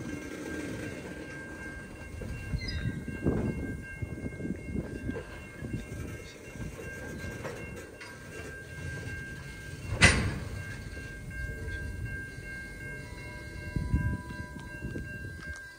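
A train rolling past, its wheels clattering and rumbling on the rails, with steady high-pitched tones over it and one sharp loud clank about ten seconds in.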